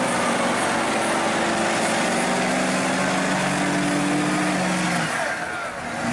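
Mud truck engine revving, its pitch climbing steadily under load for about five seconds. It then drops off and dips before pulling up again.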